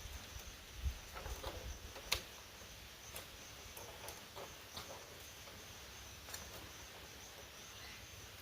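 A steady high insect drone, with a few scattered sharp clicks and light knocks, the loudest about two seconds in.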